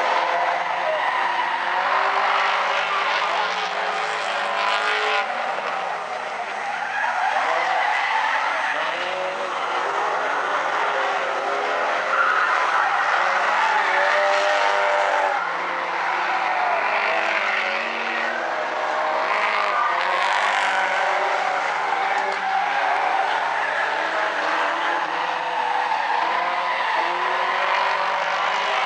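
Several small race-car engines of the Stinger 8 class revving and lifting in overlapping waves as a pack laps a figure-eight track, with tyres skidding through the turns.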